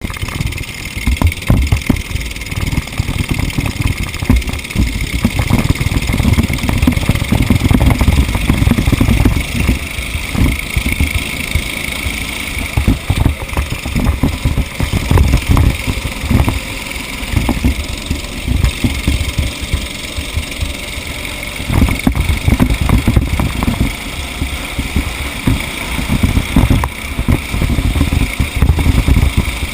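A race vehicle's engine running and revving unevenly, with heavy wind buffeting on the microphone.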